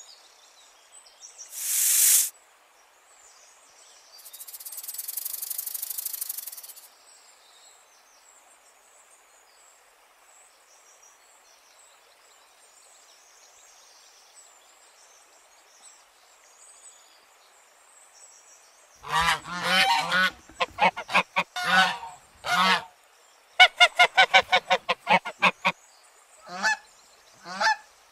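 A short hiss about two seconds in and a longer hiss a few seconds later. After a quiet stretch come loud honking calls of geese: uneven clusters, a fast run of honks, then single honks near the end.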